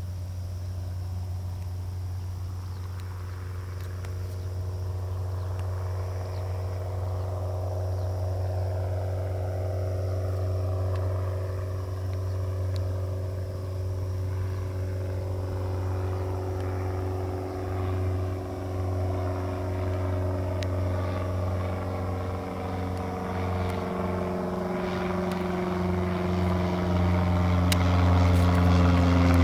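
Cessna light aircraft's engine and propeller droning as it approaches, growing steadily louder toward the end.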